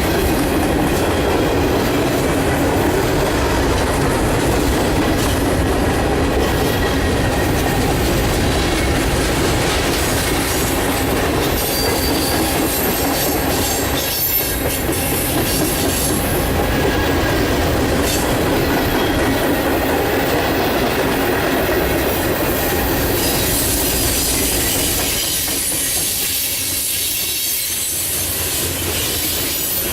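Freight cars of a mixed freight train rolling past steadily, their steel wheels running on the rails. The sound eases off slightly a few seconds before the end.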